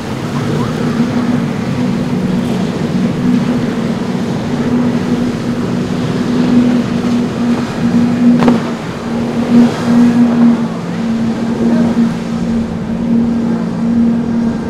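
Motorboat engines running steadily, a constant hum over the rush of water and wind, with one sharp knock about eight and a half seconds in.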